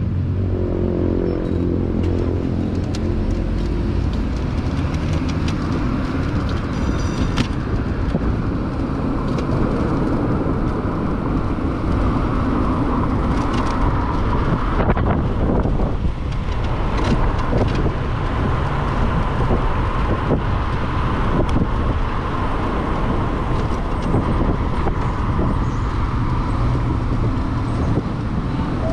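Steady road and traffic noise with wind on the microphone, heard while riding an electric motorbike through city streets.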